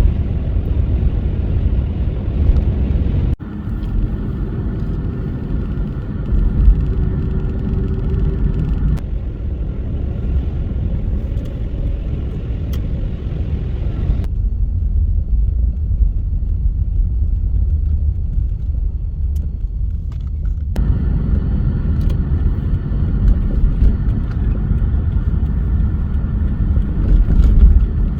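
Car driving through a snowstorm: a steady low rumble of road and engine noise that changes abruptly several times.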